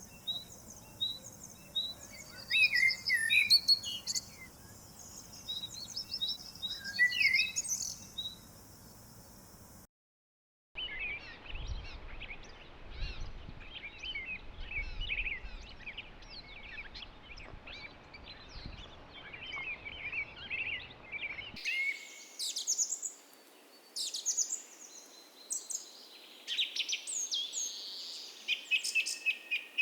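Morning chorus of several woodland birds: many short chirps, twitters and trills overlapping. It drops out for under a second about ten seconds in, and the background hiss changes there and again a little past twenty seconds in.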